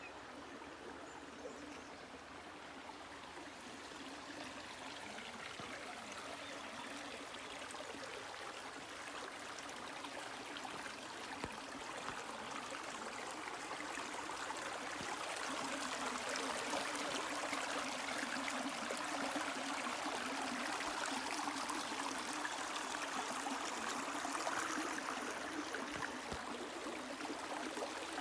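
Water of a stream running steadily, growing louder over the first half and then holding steady.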